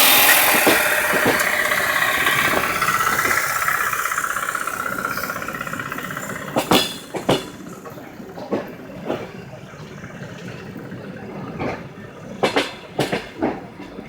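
A passing vehicle, loudest at the start and fading away over several seconds. It is followed by a series of sharp, scattered knocks.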